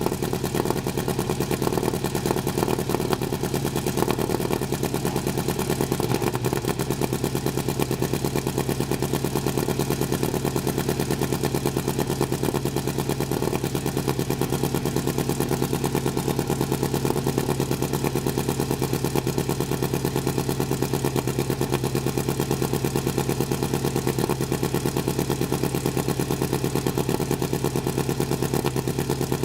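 Vintage race car engine running steadily at a constant low speed, with even, rapid firing pulses and no revving.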